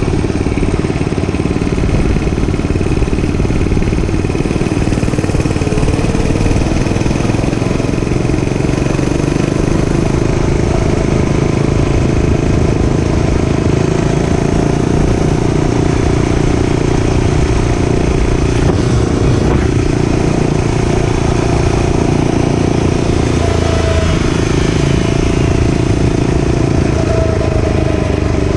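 Dirt bike engine running continuously while being ridden, its pitch shifting slightly a couple of times with the throttle.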